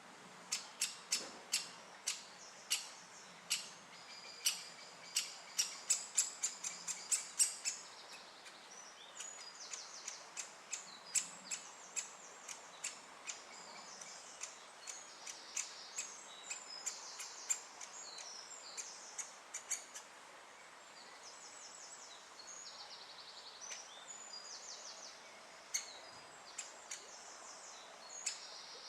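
Great spotted woodpeckers at the nest: a quick, irregular run of sharp clicks in the first eight seconds, then sparser clicks mixed with bursts of buzzy, rapidly repeated high chirping from the chick begging for food.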